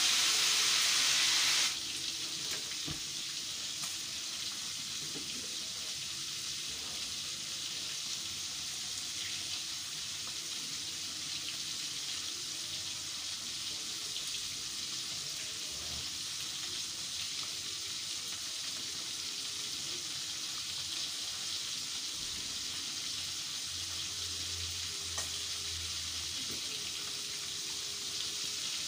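Food frying in a wok on a gas stove: a loud sizzling hiss for the first second and a half or so, then a steadier, quieter sizzle that carries on throughout.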